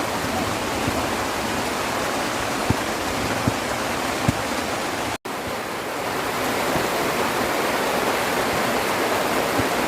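Heavy rain falling steadily, a dense even hiss with a few light knocks around the middle; it cuts out for an instant about five seconds in and resumes.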